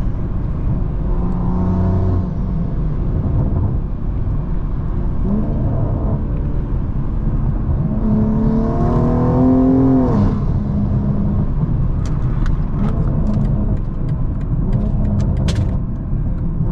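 BMW M340i's big-turbo B58 inline-six engine under load, its pitch climbing through a hard pull about eight to ten seconds in and falling away as the throttle closes. A run of sharp pops and crackles from the exhaust follows on the overrun: the car's natural burbles, not programmed in the tune.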